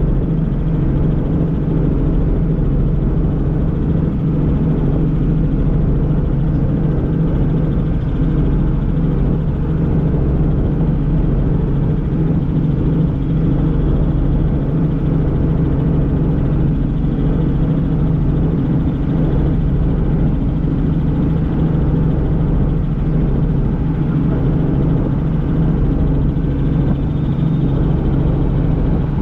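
Helicopter in flight, heard from inside the cabin: a loud, steady drone of engine and rotor that holds even and unbroken.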